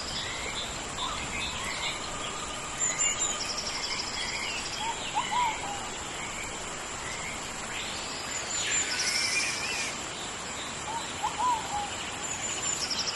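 Tropical rainforest ambience: many birds calling over a steady high-pitched insect drone and an even background hiss. One bird repeats the same short trilled call every few seconds.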